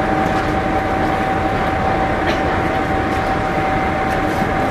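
Diesel railcar idling at the platform: a steady rumble with a constant, unchanging whine.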